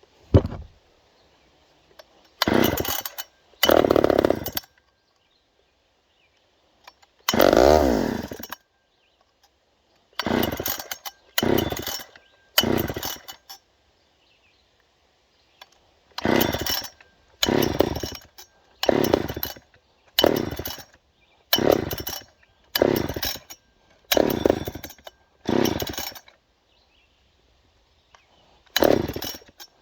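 Poulan 306A chainsaw being pull-started again and again: about fifteen short rope pulls, each turning the engine over briefly, in bunches with pauses between. The engine does not catch; the saw had sat with its oil and gas drained and is hard to start.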